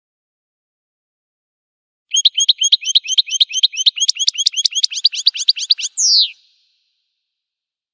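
Recorded goldfinch song starting about two seconds in: a fast, even run of about seven short repeated chirps a second for nearly four seconds, ending in one falling whistled note.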